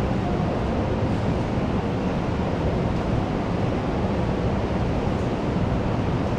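School canteen ambience: a steady, dense wash of noise, heaviest in the low end, with no single sound standing out.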